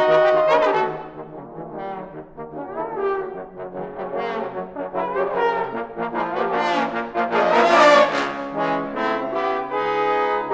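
Trombone ensemble playing, several trombones together in harmony. It drops quieter about a second in and builds back to a loud peak near the end.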